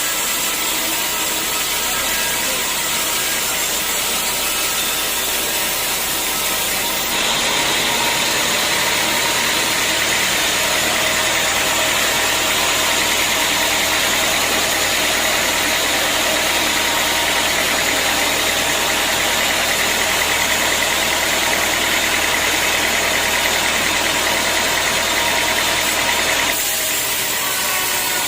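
Sawmill machinery running steadily. About seven seconds in, the sound turns abruptly louder and hissier as the saw bites into a teak log. It stays that way until shortly before the end, then drops back to the plain running sound.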